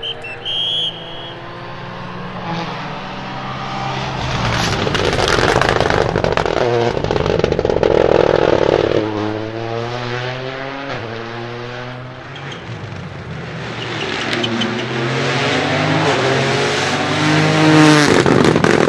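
Toyota GR Yaris Rally2's turbocharged three-cylinder rally engine at full throttle as the car passes, its note climbing and dropping through several quick upshifts. It swells twice and cuts off suddenly near the end.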